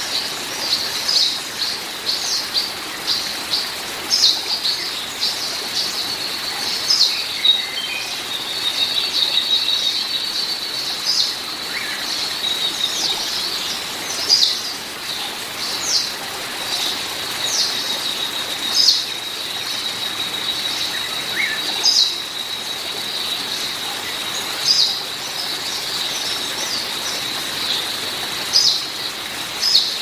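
Nature-sounds ambience: birds chirping in short, high notes about once a second, over a steady high-pitched tone and a constant soft hiss.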